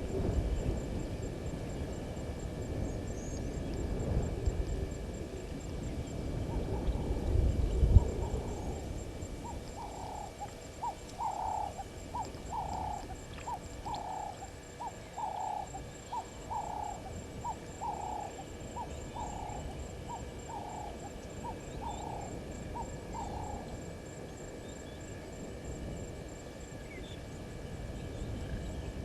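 A bird calling a long series of about twenty short hooting notes, one or two a second, that stops about two-thirds of the way through. Before the calls there is a low rumble with a thump about eight seconds in, and a faint, high, steady insect trill runs throughout.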